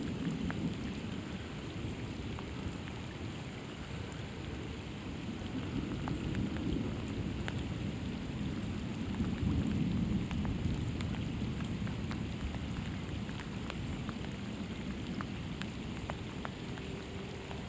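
Heavy rain falling steadily, with scattered drops ticking close by and a low rumble that swells and fades a few times.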